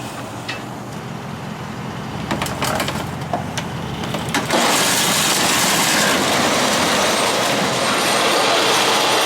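Heavy vehicle machinery running, with a few clanks and knocks, then a sudden loud, steady grinding rush of noise from about four and a half seconds in, typical of a disabled truck being winched or dragged onto a tow vehicle.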